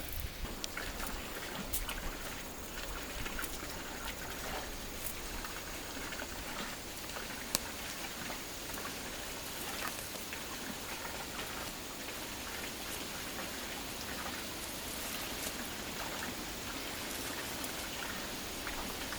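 Steady hiss with scattered faint ticks, and one sharper tick about seven and a half seconds in.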